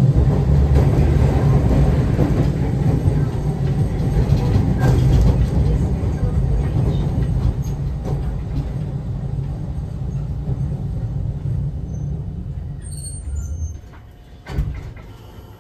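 Nagasaki streetcar heard from on board: a steady low rumble of motors and wheels on the rails that gradually fades as the tram slows, dying away near the end, followed by a single short clunk.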